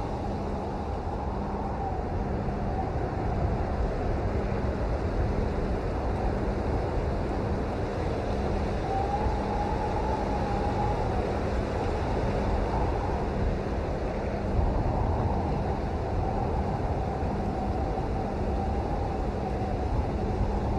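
Steady rain, an even rushing noise heaviest in the low end with no breaks or single drops standing out.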